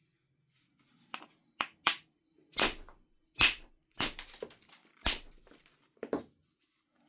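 Percussion flaking of Knife River flint: about eight sharp, clinking strikes of a knapping billet on the stone, irregularly spaced, the later ones louder.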